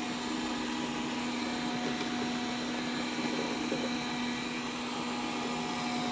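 Dreame D10 robot vacuum running with a steady motor whine and suction hiss.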